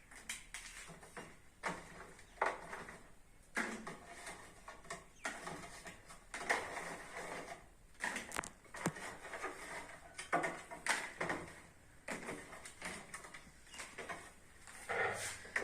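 Irregular knocks and clatter of household items being handled and set down, about one or two a second, some with a brief ringing.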